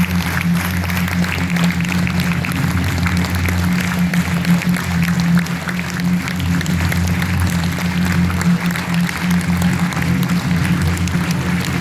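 Theatre audience applauding, a dense patter of many hands, over music with a steady low drone.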